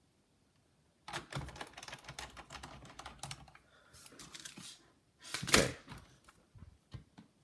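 Rapid, irregular small clicks and taps of a precision screwdriver driving screws into a plastic laptop chassis, starting about a second in.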